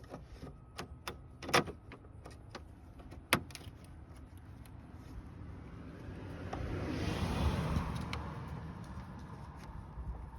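A few sharp clicks and knocks of hand tools working at the upper radiator hose. About six seconds in, a rushing noise swells for a few seconds and then fades.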